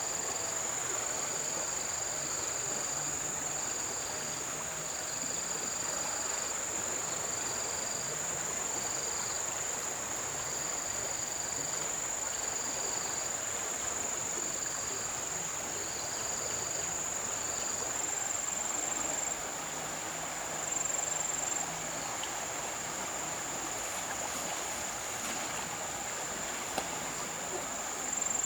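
Insects trilling: one steady high-pitched trill throughout, with a second, lower trill coming in short runs of about a second during the first half, over a steady hiss.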